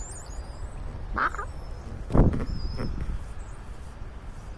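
Birds calling: thin high chirps throughout, with a louder, harsher call about a second in and again near three seconds. A sharp thump about two seconds in is the loudest moment, over a steady low rumble.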